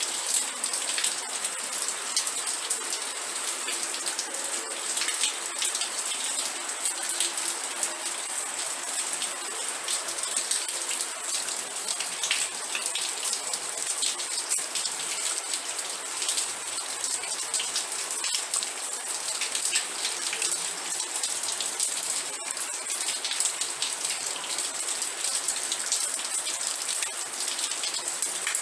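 Steady rain, a dense patter of individual raindrops striking a surface, even in loudness with no let-up.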